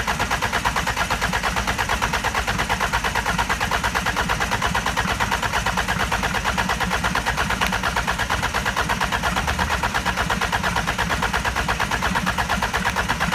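Starter motor cranking a Hyundai/Kia D4EA 2.0 CRDi diesel engine for a compression test, the engine turning over without firing. An even rhythm of about six compression pulses a second.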